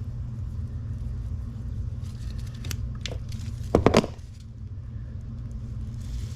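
Metal clicks and clunks from a chain breaker tool being worked on a dirt bike chain to push out a link pin. The loudest is a short cluster of knocks about four seconds in, over a steady low hum.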